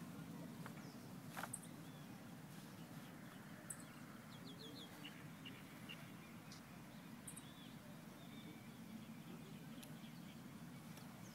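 Faint outdoor background with a steady low hum and a few distant bird chirps, including a quick run of chirps about halfway through.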